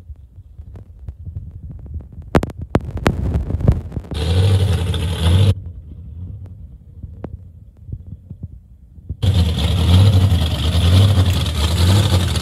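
Car engines running with a low, throbbing exhaust note, in short stretches that cut in and out abruptly, with sharp clicks or pops in between.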